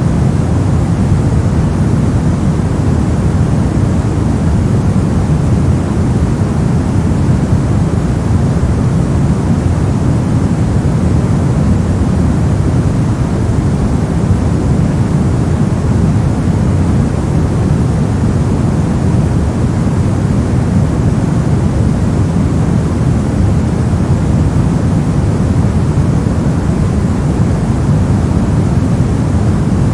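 Continuous generated noise, steady and unchanging, heavier in the low end than the treble: a deep, even rushing hiss.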